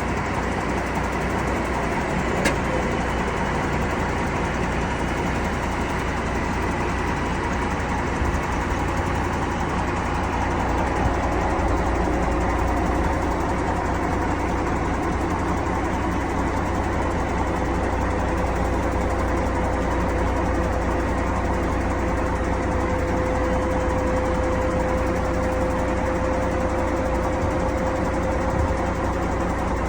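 M923 military truck's diesel engine running steadily, with a faint whine that slowly climbs in pitch from about a third of the way in.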